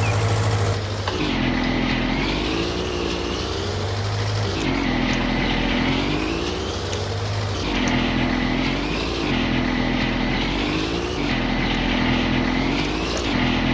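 Garden tractor engine running under mowing load, its pitch rising and falling again about every three seconds as it drives and cuts. About a second in, the sound changes from a steady low hum to this cycling tone.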